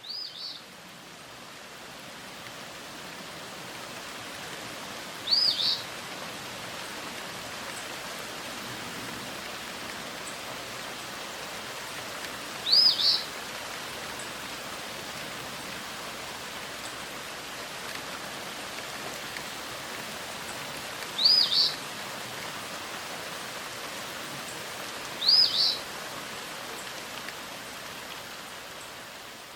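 A steady background hiss with a short, high double chirp from a small bird heard five times at uneven intervals.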